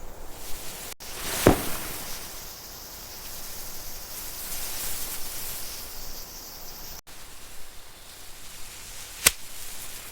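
Rustling over a steady hiss, with two sharp clicks, one about a second and a half in and one near the end.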